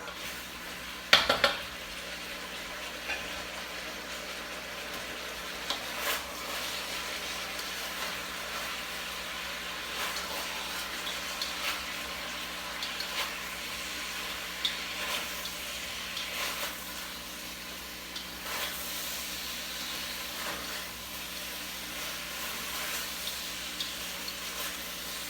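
Food sizzling in a hot pan, a steady hiss, while a utensil stirs it and knocks against the pan now and then, the sharpest knock about a second in.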